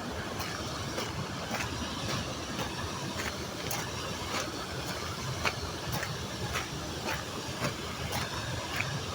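Small waterfall: water pouring and splashing steadily, with irregular sharp splashes and drips over the top.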